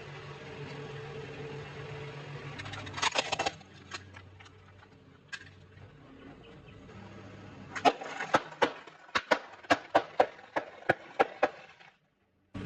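Close-up crunching of fried food being chewed: a quick cluster of crunches about three seconds in, scattered crunches after, then a steady run of crunches about three a second from about eight seconds in, over a low steady hum. The sound cuts off abruptly just before the end.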